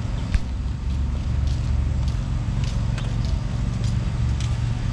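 Street traffic: a motor vehicle's engine running steadily close by, with a few light clicks and ticks over it.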